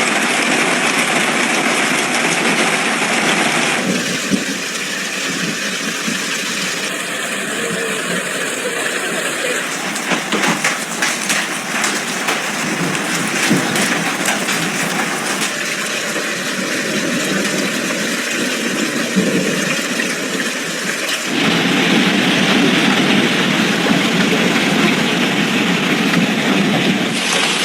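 Heavy storm rain pouring down as a loud, steady rush. The sound changes abruptly about 4, 10 and 21 seconds in, with a stretch of sharp patter from about 10 to 14 seconds in.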